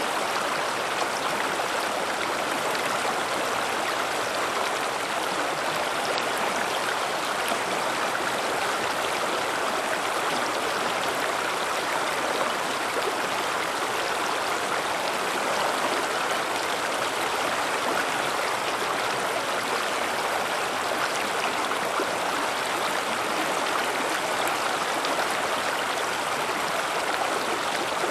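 River water rushing and splashing over rocks, a steady even roar of flowing water.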